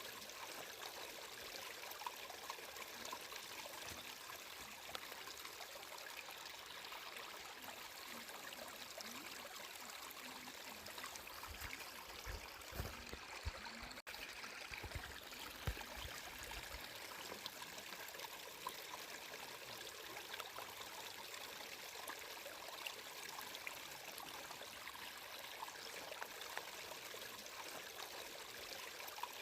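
Water flowing and trickling steadily, with a few dull low thumps near the middle.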